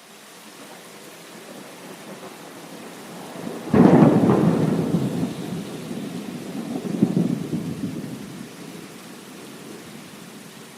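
A thunderclap about a third of the way in: a sudden sharp crack that rolls into a low rumble, swells again, then fades, over steady heavy rain.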